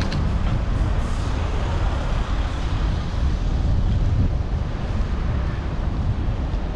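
Wind buffeting the microphone of a helmet-mounted GoPro while cycling: a steady, heavy low rumble.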